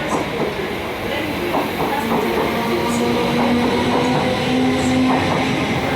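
Freight train rolling through the station, its wagon wheels clicking over rail joints about once a second with steady rumbling, and a faint steady tone.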